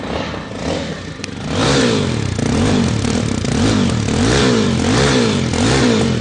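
Jawa 42 FJ motorcycle's single-cylinder engine revved in a string of quick throttle blips through its exhaust, the pitch rising and falling over and over.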